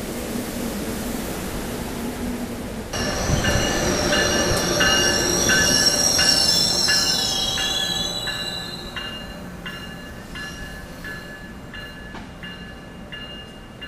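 Amtrak passenger train passing close by: high-pitched wheel squeal over a regular clacking of wheels over rail joints, loudest midway and then fading as it goes by. It begins abruptly about three seconds in, after a steady rushing noise.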